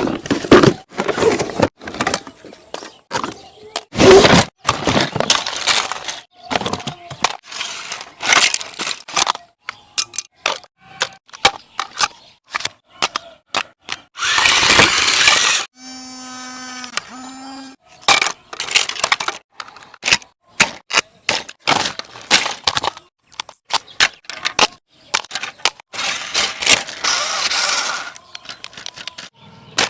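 A long run of sharp cracks, snaps and clattering knocks, like things breaking. There are two longer hissing bursts of noise, one in the middle and one near the end, and just after the first a short buzzing tone sounds twice.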